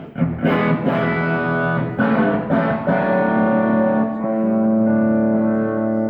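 Electric guitar played through effects with a light overdrive: several picked notes and chords, then a chord left ringing from about three seconds in.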